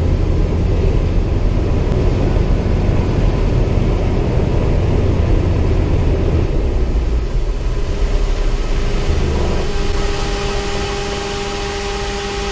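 CAC Winjeel's Pratt & Whitney R-985 nine-cylinder radial engine running steadily with a deep rumble. About ten seconds in the rumble drops away and a steady high whine takes over.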